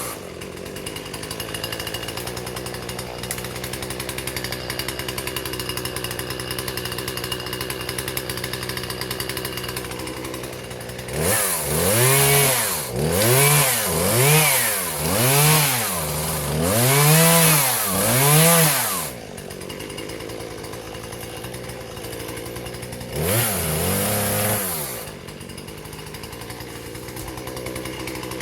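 Husqvarna 120 two-stroke chainsaw idling, then revved up and let back down about five times in quick succession starting about eleven seconds in. It drops back to idle, is revved once more a little before the end, and returns to idle.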